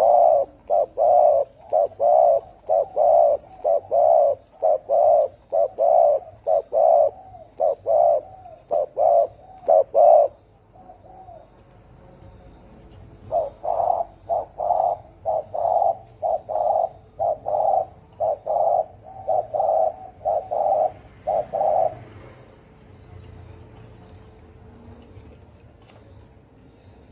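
Spotted dove cooing: a fast series of deep, hoarse coos, about two a second, in two long runs with a pause of a few seconds between them. This is the territorial 'thổ' coo that keepers play to provoke wild males.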